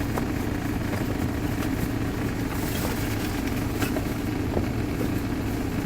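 Steady low hum of an idling diesel truck engine heard from inside the sleeper cab, with a few faint clicks.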